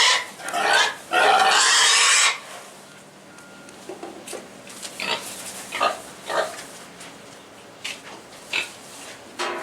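Hungry pig squealing: two loud, harsh squeals, the second lasting about a second, then quieter short grunts and snuffles.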